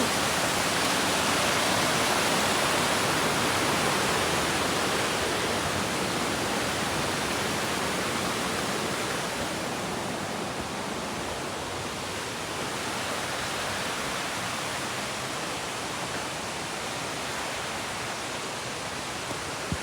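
Waterfall rushing steadily, a dense even roar of falling water that softens a little about halfway through.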